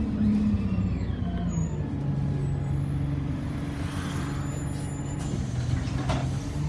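Alexander Dennis Enviro200 single-deck bus engine heard from inside the cabin, its note falling over the first two seconds as the bus eases off, then running steadily at a lower pitch.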